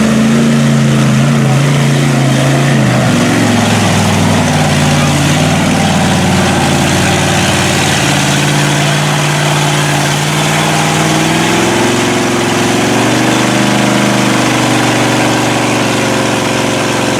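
Mud-bog truck engine running hard at high revs. Its pitch dips about three seconds in and climbs again about eleven seconds in, over a loud rush of noise.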